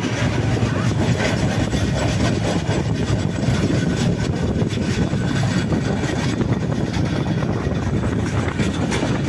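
Passenger train running along the track: steady wheel-on-rail noise heard from inside the moving coach.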